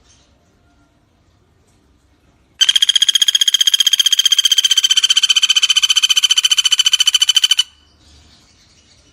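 Javan flameback woodpecker (pelatuk bawang) giving one long, rapid rattling trill, steady in pitch. It starts about two and a half seconds in and lasts about five seconds, then stops abruptly.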